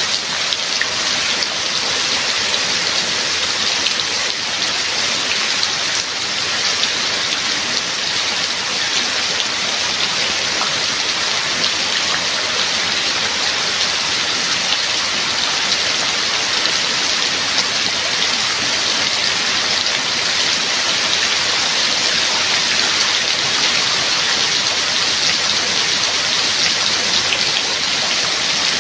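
Steady rainfall pattering on a surface, an even hiss of dense drops with no break.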